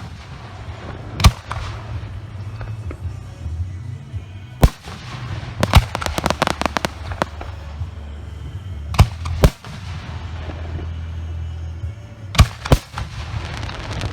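Professional aerial firework shells going off as sharp booms, about seven in all, spaced a few seconds apart with some in quick pairs. A run of rapid crackling pops comes just after the third boom. A steady low rumble lies underneath.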